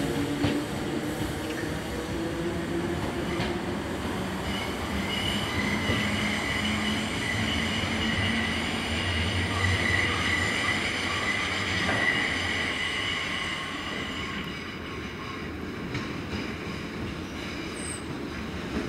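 Merseyrail electric multiple unit pulling away and running off into the distance, its running sound falling in pitch at first. A steady high-pitched wheel squeal sets in about five seconds in and stops around fourteen seconds, after which the train's noise fades.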